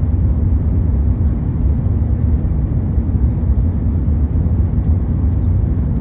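Steady low rumble inside the cabin of an Airbus A380 airliner: engine and airflow noise heard from a passenger seat, even in level throughout.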